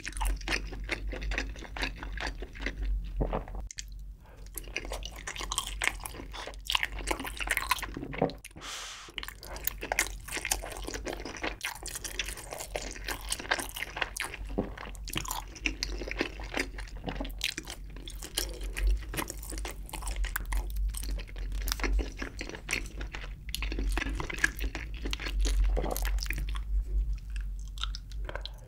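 Close-miked chewing and mouth sounds of a person eating spicy braised chicken with Spam and sausage: a dense run of small wet clicks with no pauses of any length.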